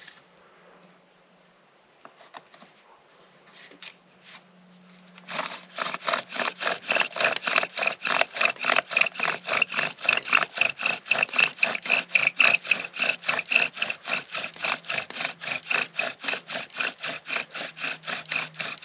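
Bow drill friction fire being worked: after a few faint clicks, about five seconds in the bow starts sawing back and forth in fast, even strokes, the wooden spindle rubbing and squeaking in the fireboard with each pass. The drilling is bringing the set to smoke.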